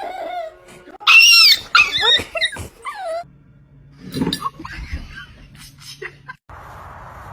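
A dog whining and yelping in high, wavering calls, loudest about a second in. After that the sound cuts to a low steady hum and then to a steady hiss.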